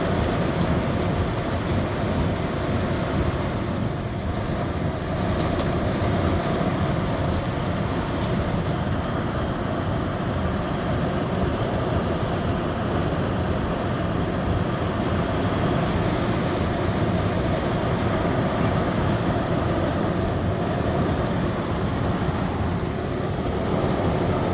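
Heavy thunderstorm rain beating on the roof and windows of a car, heard from inside the cabin as a steady, dense noise.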